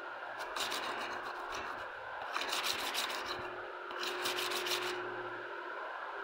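Three bouts of rubbing, scratching noise of about a second each, over a steady background hiss.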